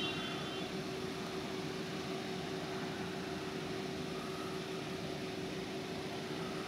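Steady hum of a car engine idling, with a faint constant tone running through it.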